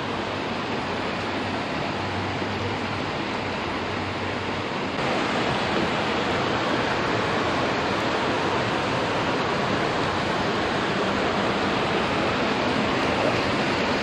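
Steady rushing noise of wind and water around a boat, with a faint low hum under it at first; it steps up in loudness about five seconds in.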